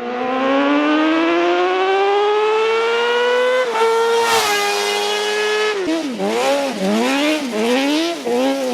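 Crosskart's sportbike engine at high revs: the pitch climbs steadily through a gear for about three and a half seconds, shifts, holds, then rises and falls about four times as the throttle is lifted and reapplied.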